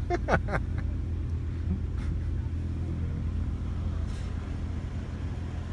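Volkswagen's engine running with a steady low drone, heard from inside the cabin as the car moves.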